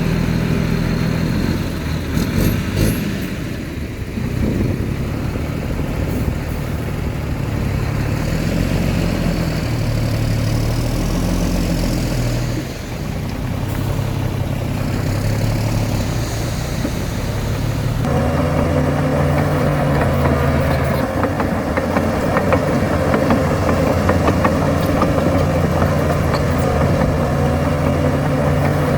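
Heavy diesel engine of earthmoving machinery running, its pitch rising and falling as the load changes; about two-thirds of the way through the engine sound becomes louder and fuller.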